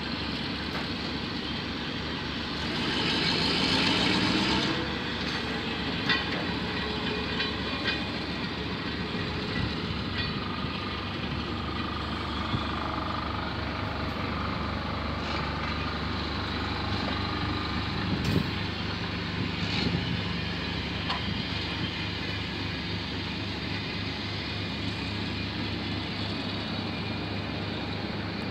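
Diesel-hauled passenger train rolling slowly past, with the locomotive's engine running steadily under it. Now and then the wheels knock over rail joints, and there is a louder rushing stretch a few seconds in.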